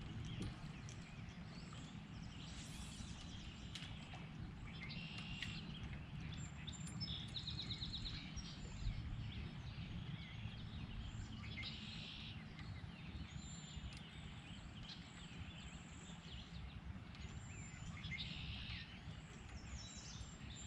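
Songbirds singing and calling: short whistles and chirps, with a rapid trill about a third of the way in, over a steady low rumble.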